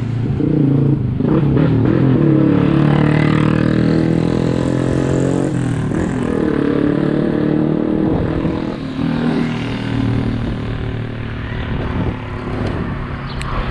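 A motor vehicle's engine running close by on the road, its pitch shifting slowly up and down.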